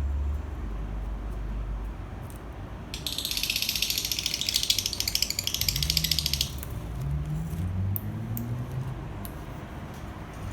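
Lovebirds chattering: a dense, rapid, high-pitched buzzing twitter lasting about three and a half seconds, starting about three seconds in, followed by a few short chirps.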